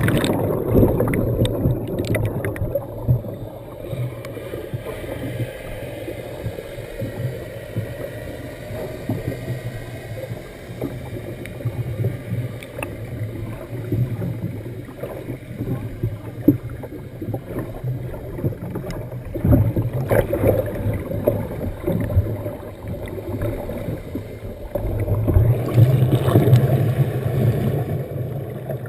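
Sea-Doo jet ski engine running at low speed with water sloshing and gurgling against the hull. The engine swells louder at the start and again about 25 seconds in.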